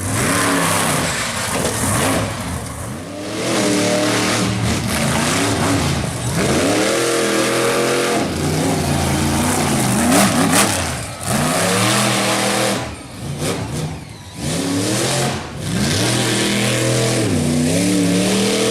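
Monster truck engine revving hard, its pitch rising and falling again and again as the throttle is worked, with short lifts off the throttle.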